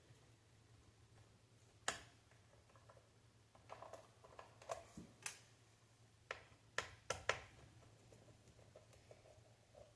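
Scattered light clicks and taps of small screws being handled and set down on a hard surface, about nine in all between two and seven and a half seconds in, over a faint low hum.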